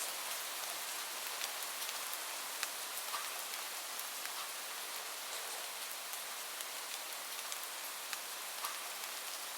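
Steady rain falling on a surface: an even hiss with many small drop impacts scattered through it.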